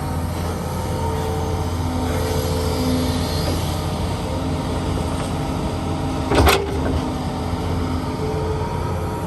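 Diesel engine of a working excavator running steadily, with a single loud bang about six and a half seconds in.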